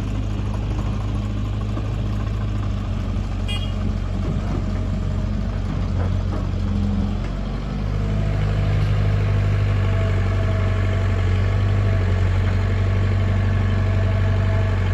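Sonalika DI-35 RX tractor's diesel engine running steadily, its note shifting about six to eight seconds in and then running a little louder.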